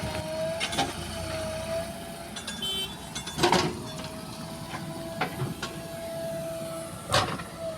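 A small electric motor whining steadily in short runs that stop and restart, with a few sharp clacks, about three seconds apart.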